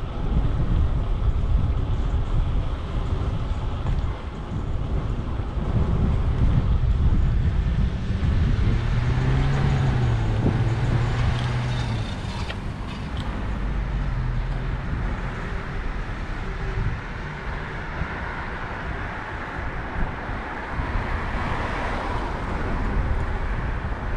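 Street traffic heard from a moving bicycle, with wind rumbling on the microphone. A motor vehicle's engine hums steadily for a few seconds near the middle.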